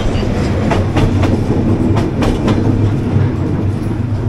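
Passenger train passing at very close range with a heavy, steady rumble. Its wheels clack over the rail joints in quick irregular runs, most densely in the first half.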